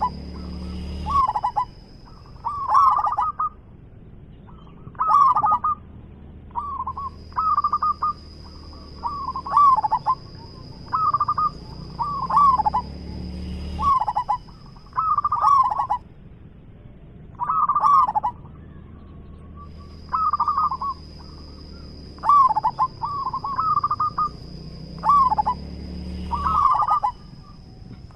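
A zebra dove (perkutut) singing, with short cooing phrases repeated about every second and a half.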